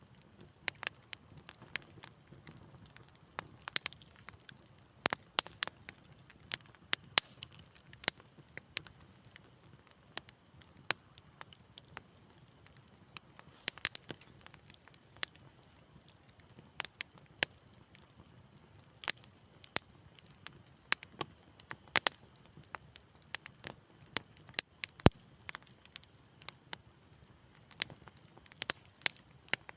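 Wood fire crackling in a fireplace: irregular sharp pops and snaps, a few a second, over a faint low hiss of the flames, with one louder pop about 25 seconds in.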